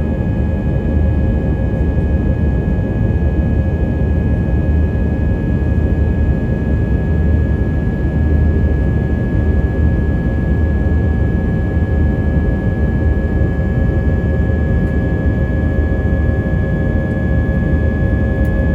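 Cabin noise inside an Airbus A320-232 under power from its IAE V2500 turbofans: a loud, steady rumble of engine and airflow noise with several steady whining engine tones laid over it.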